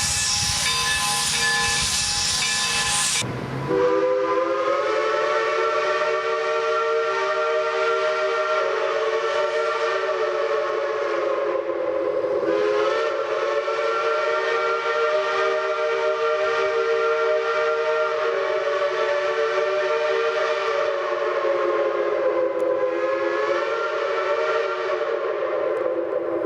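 Steam locomotive blowing off steam in a loud hiss with a faint whistle tone, then after about three seconds a steam locomotive chime whistle sounding several notes together in one long blow. The chord dips briefly about twelve seconds in and wavers again near the end.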